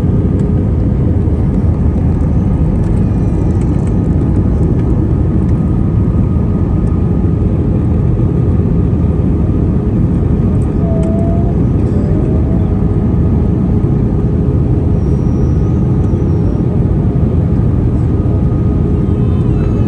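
Airbus A320 cabin noise: a steady, loud rumble of jet engines and rushing air with a constant low hum, unchanging throughout.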